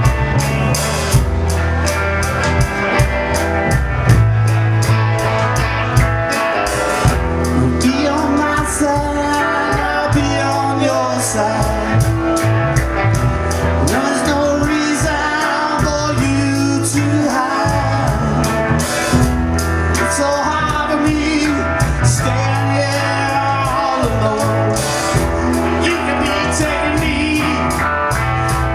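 A live rockabilly blues band playing: electric guitar over bass and a drum kit keeping a steady beat.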